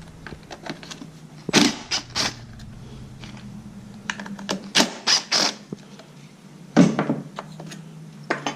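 Clicks and knocks of hand-tool work on a RedMax blower's plastic housing as the screws holding a cover plate are taken out: sharp taps in small clusters over a steady low hum.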